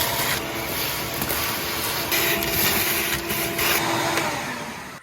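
An electric motor tool running steadily with a loud rushing hiss, already up to speed, then winding down and stopping near the end.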